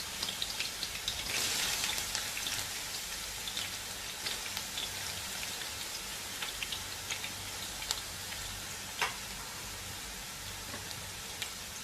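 Sliced onions frying in hot sunflower oil and ghee: a steady sizzling hiss with many scattered crackles and pops, strongest in the first couple of seconds and easing a little after, with one sharper tick about nine seconds in.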